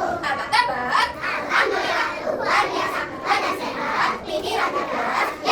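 Young children's voices talking and singing.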